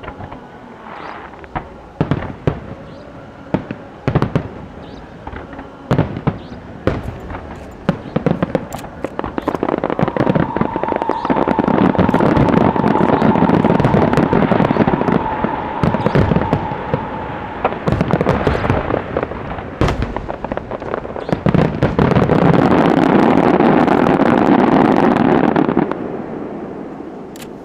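Aerial fireworks show: separate shell bursts at first, building into two long, dense barrages of rapid bangs and crackling, the first with a steady whistle running through it, before dying away near the end.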